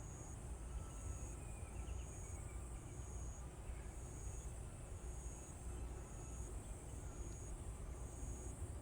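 An insect calling in even high-pitched pulses, about one a second, over a steady low rumble of outdoor background noise.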